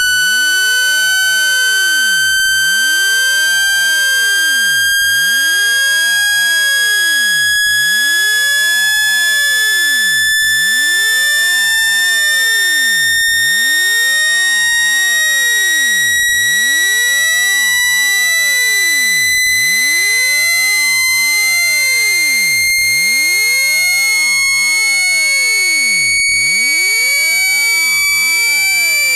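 Synthesized speaker-cleaning tone: a single loud, buzzy high tone gliding slowly and steadily upward in pitch, played to vibrate water out of a phone speaker.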